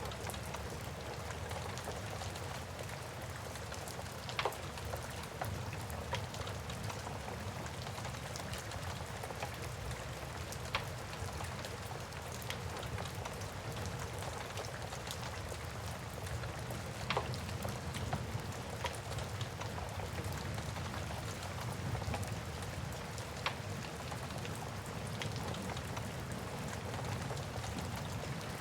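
Steady rain with a low rumble, and a wood fire crackling with a few sharp pops spaced several seconds apart.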